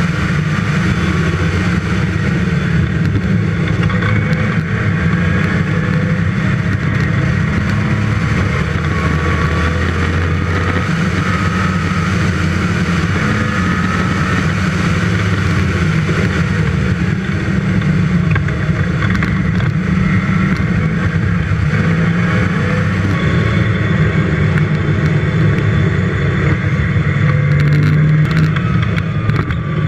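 Westfield's 5-litre V8 engine at track speed, heard onboard from the open car. Its pitch rises and falls with throttle and gear changes.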